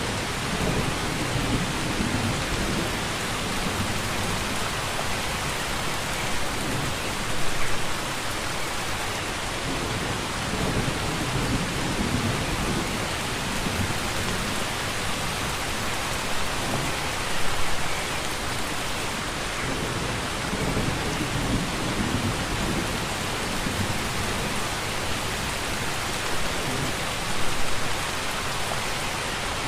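Steady heavy rain with low rolls of thunder that come and go. A brief louder swell of rain comes about every ten seconds.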